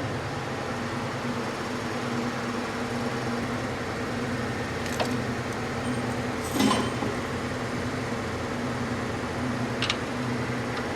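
Steady machine hum of a workshop, with a few short metallic clicks and one louder clatter a little past halfway from tools and engine parts being handled during disassembly.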